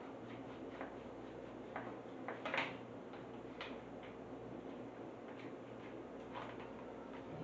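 Small clicks and scrapes of packaging being handled and opened by hand, a few scattered handling noises with the loudest cluster about two and a half seconds in, over a steady low room hum.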